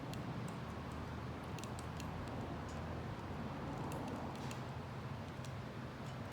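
Wood fire burning in a homemade Solo Stove-style wood-gas stove: a steady low rush of the flames with scattered small crackles.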